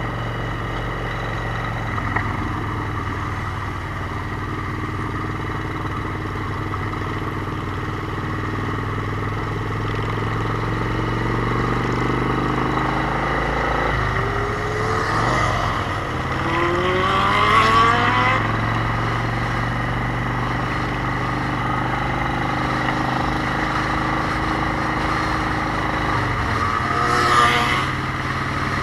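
Motorcycle engine running steadily under way, its pitch climbing in rising sweeps about halfway through as it accelerates. There are louder swells near the middle and again near the end.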